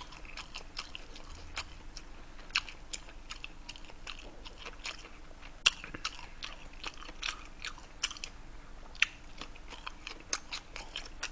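A person chewing a mouthful of gimbap, a seaweed rice roll with pickled radish and burdock, close to the microphone: irregular wet mouth clicks and soft crunches.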